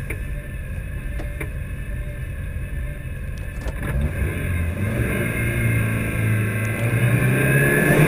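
Mitsubishi Lancer Evo IX rally car's turbocharged four-cylinder engine running on the start line. The revs are raised and held from about four seconds in and climb toward the end, as the car is readied for the launch.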